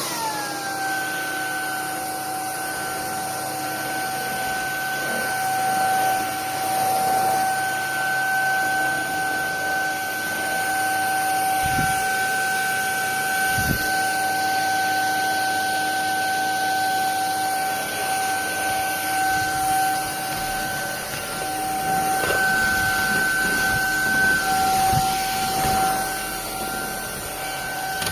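Bulelink cordless stick vacuum running: a steady high motor whine over the hiss of suction. Its pitch drops in the first half-second and then holds. A few dull knocks come from the cleaner head, one around the middle and several near the end.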